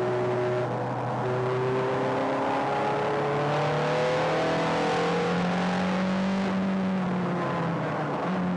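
Ferrari sports car's engine heard from inside the cabin while driving on track: the note rises steadily for several seconds, then falls back about two-thirds of the way through and holds lower.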